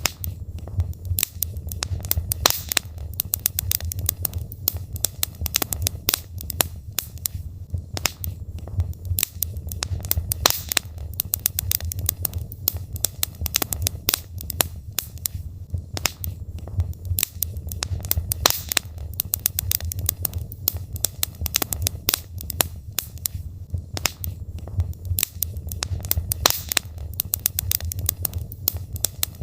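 Burning logs in a wood fire crackling, with frequent irregular sharp pops and snaps over a steady low rumble.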